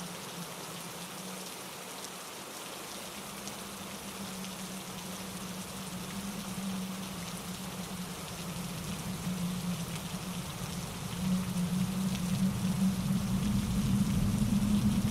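Steady rain falling with wind in the trees, an even hiss over a low steady rumble. The rumble swells and the whole sound grows louder over the last few seconds.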